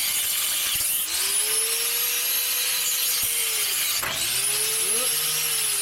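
Angle grinder with a cutoff disc cutting through steel exhaust pipe over a steady grinding hiss. The motor's whine rises to speed about a second in and drops about four seconds in. It picks up again after a sharp click, then winds down near the end.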